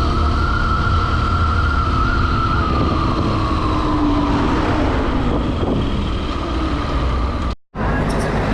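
Honda CRF150L single-cylinder motorcycle engine running on the move, with wind rumble on the microphone; the engine note holds and then falls slowly over a few seconds as the bike eases off. The sound cuts out for an instant near the end.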